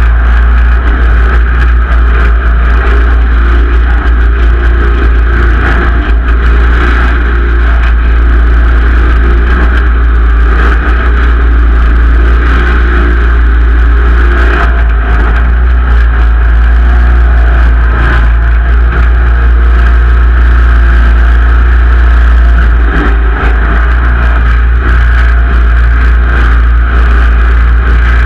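Simplicity Legacy XL garden tractor's engine running steadily.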